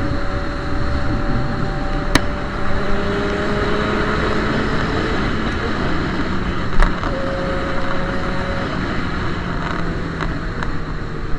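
Yamaha XJ6's inline-four engine running through a straight-pipe exhaust while riding at a fairly steady pace, its pitch drifting slowly up and down. Two sharp clicks, about two seconds in and again near seven seconds.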